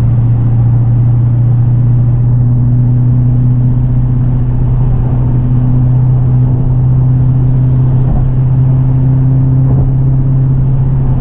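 2018 Dodge Challenger R/T Scat Pack's 6.4L Hemi V8 running at a steady cruise, heard from inside the cabin. It makes a steady low hum of even pitch through an exhaust whose factory mufflers are replaced with straight pipe and whose resonators are kept.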